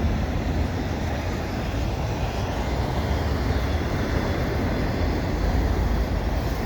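A CN freight train of empty auto rack cars rolling past, a steady low rumble of wheels on rails.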